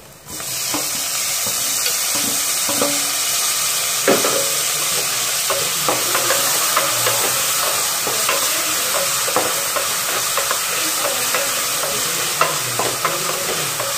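Chopped tomatoes going into hot oil and onions in a pressure cooker, setting off a sizzle that starts suddenly just after the start and then runs steadily. A wooden spatula stirring the pan adds scrapes and light knocks throughout.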